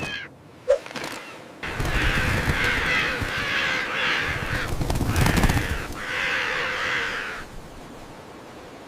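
A flock of seagulls squawking in a dense clamour, in about three bouts from under two seconds in, dying down near the end.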